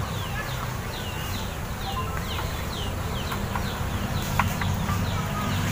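Birds chirping over and over, short falling chirps a few times a second, over a steady low rumble.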